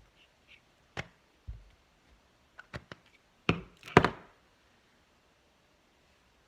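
A scatter of knocks and taps from craft tools and paper being handled on a worktable. The two loudest thuds come close together about three and a half seconds in.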